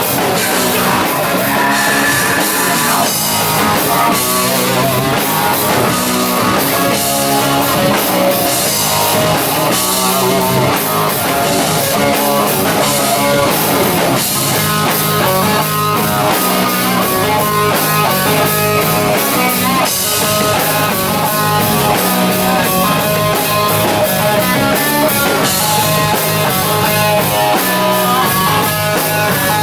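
Rock band playing loudly and steadily without vocals: electric guitar over a drum kit.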